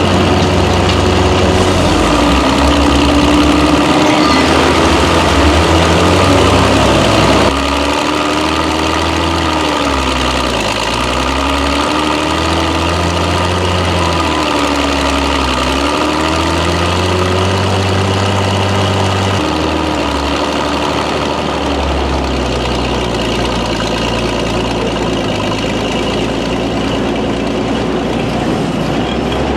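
Engine of a tracked armoured vehicle running under way with the clatter of its tracks, the engine pitch dipping and rising again several times; the sound changes abruptly about seven and a half seconds in.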